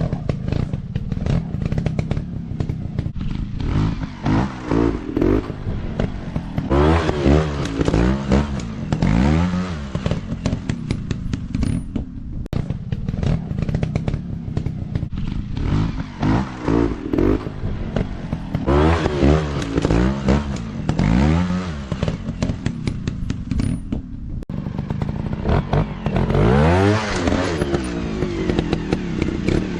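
Off-road dirt bike engine revving hard again and again, its pitch climbing and dropping with each burst of throttle, over a steady low engine note, with frequent knocks and clatter.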